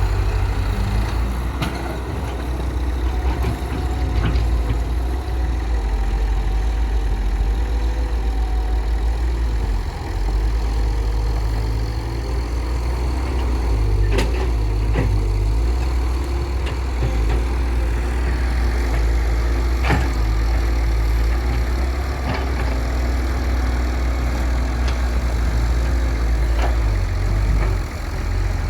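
Heavy diesel machinery engine running steadily at a low rumble, with a few sharp knocks scattered through.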